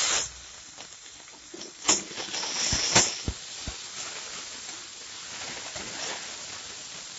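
Chopped tomatoes and onions sizzling in hot oil in a kadai, loud at first and then settling to a low hiss, while a metal spatula stirs them and clinks and scrapes against the pan a few times around two to three seconds in.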